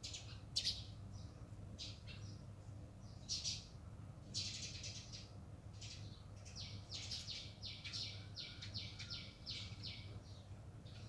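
A bird calling: scattered short, high chirps, then a steady run of about a dozen quick repeated notes, roughly four a second, in the second half.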